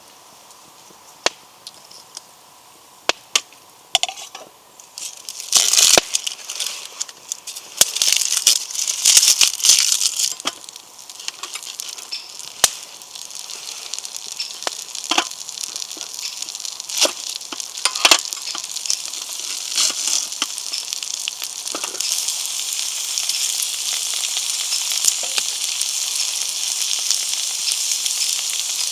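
Food sizzling in a pan over a small wood fire. Sharp clicks and crackles come first, then louder bursts of frying around a third of the way in, and the sizzle grows into a steady hiss through the second half.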